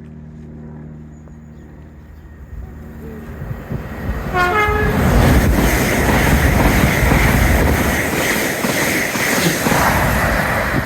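A train approaches with a steady low engine hum, sounds a short horn blast about four seconds in, then passes close by with a loud, sustained rush of wheel and body noise.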